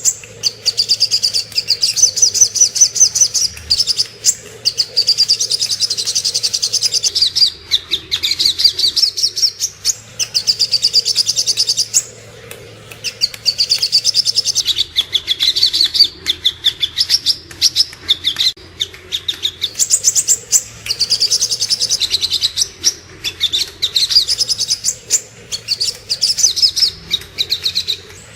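Sogok ontong (little spiderhunter) song: long trains of high, rapidly repeated chirps, nearly continuous, with a short break about twelve seconds in.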